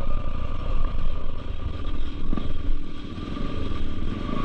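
Motorcycle engine running steadily while riding along a rough off-road trail.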